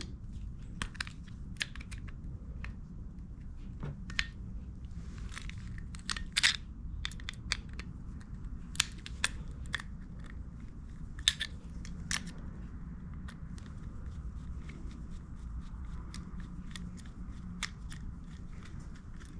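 Pliers and small metal carburetor parts clicking and tapping irregularly as the main jet is worked out of a small carburetor, over a steady low hum.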